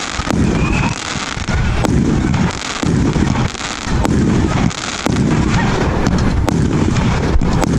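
A 50-shot 1.3G firework cake with 30mm tubes firing a rapid, nearly continuous volley of deep booms, with sharp crackling cracks and a couple of short rising whistles.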